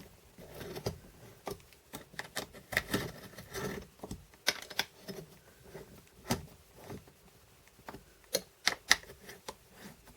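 Irregular small metallic clicks and taps from an Allen key being fitted to and turned in the bolts of a roof striker and its stainless steel shim plate, as the bolts are tightened.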